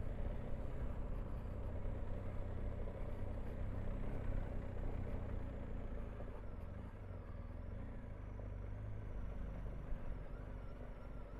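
Motorcycle running steadily on the road, its engine and the wind making a steady low rumble.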